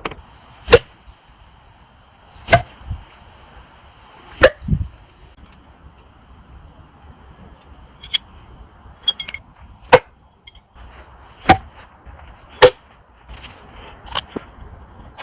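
Thrown shuriken (throwing stars) striking a target one after another: about seven sharp hits, a second or two apart, with a few lighter clicks in between.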